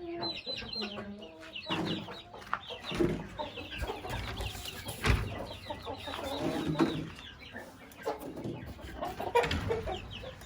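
Chickens clucking, with many short high chirps and peeps, and a few dull thumps in between.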